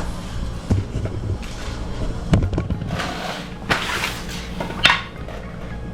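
A handful of scattered knocks and scrapes from handling things around a dishwasher being fitted into its cabinet opening, over a steady low hum.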